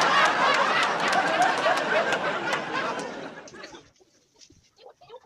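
A crowd laughing, many voices at once, like a sitcom laugh track. It fades away about three and a half seconds in.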